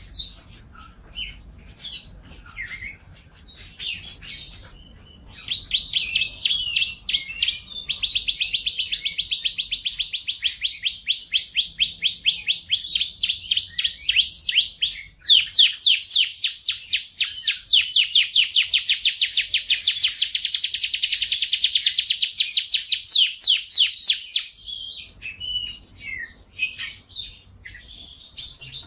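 F1 canary singing: scattered chirps at first, then from about five seconds in long rolling trills of rapidly repeated high notes, one held for about seven seconds and a louder one for about nine. Near the end it breaks back into scattered notes.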